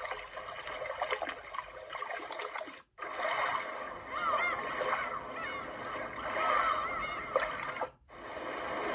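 Portable white noise machine playing its ocean-themed recorded nature sounds through its small speaker. Splashing water comes first, then a track of water with repeated short, high chirping calls, then a steady rushing sound. Each track cuts off briefly when the next preset is selected, about three seconds in and again about eight seconds in.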